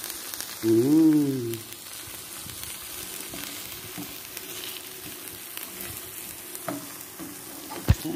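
Sauce-dipped birria taco sizzling steadily in a skillet. About a second in, a brief pitched hum rises and falls over the sizzle, and a sharp tap of the spatula on the pan comes near the end.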